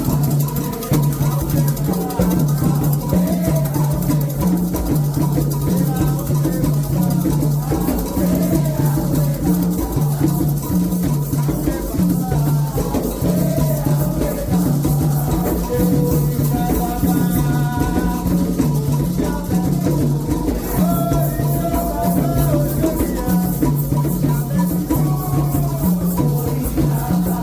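Candomblé ritual music: a steady, repeating drum rhythm with rattles shaking and chanting voices over it.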